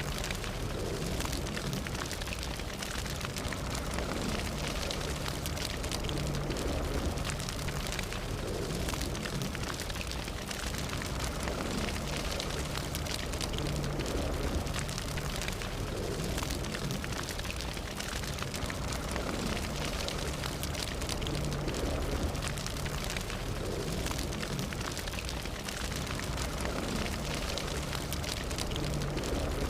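Fire burning, with a dense, steady crackle of small pops over a low rumble.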